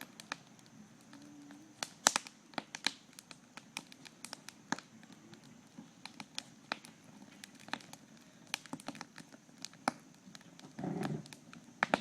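Wood campfire crackling and popping, with sharp snaps at irregular intervals over a low hiss. A short, louder low sound comes about eleven seconds in.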